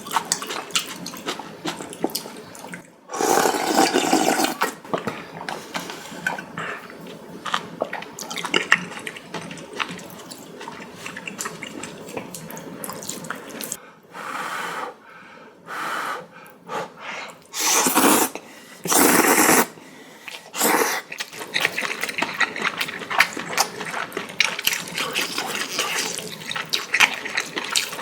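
Noodle soup being eaten close to the microphone: steady wet chewing and mouth clicks, broken by a few long, loud slurps of noodles and broth, one a few seconds in and two more past the middle.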